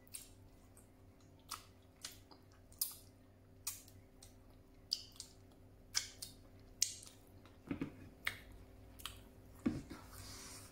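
Close-up eating sounds of a person eating with her fingers: chewing with about a dozen sharp, wet smacks and clicks spaced irregularly, and two short low mouth sounds in the second half.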